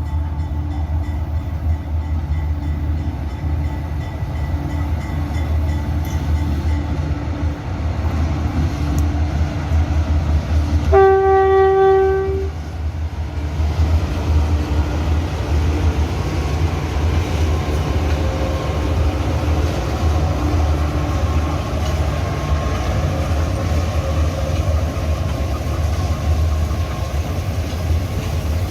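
Diesel freight locomotives running with a steady low engine rumble as the train goes by. About eleven seconds in, one locomotive horn blast lasts about a second and a half.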